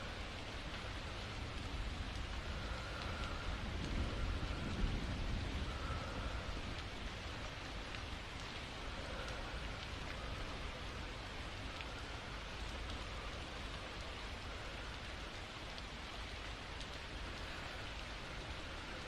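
Steady rain falling, with a low rumble that swells about four to five seconds in.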